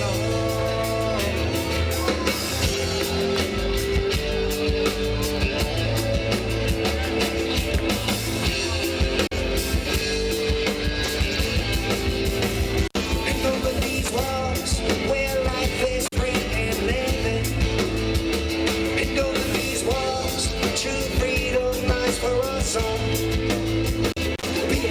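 A roots reggae band playing live with drums, bass and guitar, in an instrumental passage of a song that continues without a break.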